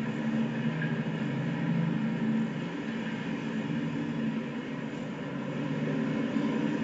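A train running past, a steady rumble with a low hum.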